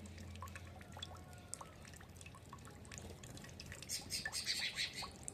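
Small birds chirping with short, scattered, drip-like calls and a few brief whistled notes, then a dense flurry of rapid twittering about four seconds in.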